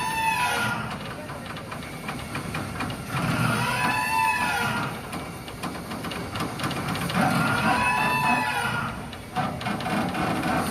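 Slipway haul-out machinery running with a steady low rumble, and a metallic squeal that rises and falls for about a second and repeats about every four seconds as the ship is pulled up onto the dock.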